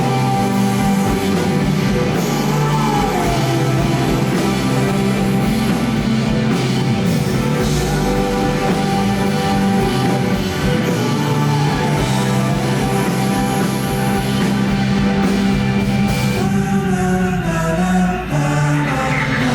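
Live rock band playing: sustained electric guitar and bass lines over drums, with a melody line that slides in pitch twice.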